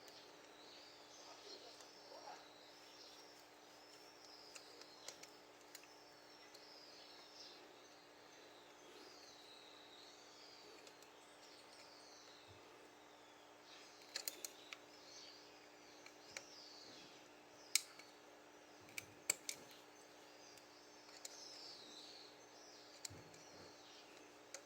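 Faint bird song, short chirping phrases repeated every second or so, over a low steady hum. A few sharp clicks stand out in the second half.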